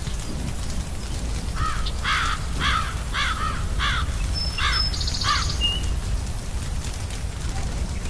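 A crow cawing about eight times in quick succession, with a couple of short high bird chirps near the end of the run, over a steady low rumble.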